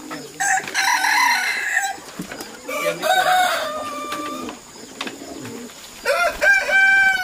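Roosters crowing: three separate crows, each about a second or more long and ending on a held note.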